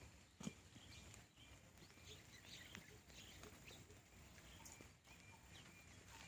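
Near silence, with faint scattered clicks and a few short, high chirps; a small knock about half a second in.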